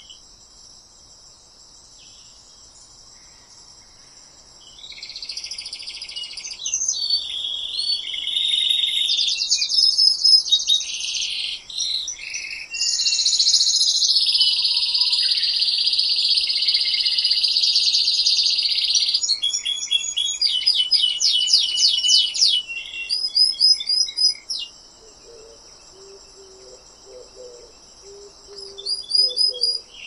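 Birds singing high-pitched chirps and rapid trills, faint for the first few seconds, then dense and loud from about five seconds in until about twenty-five seconds, with a few more chirps near the end. A faint steady high-pitched hiss lies underneath.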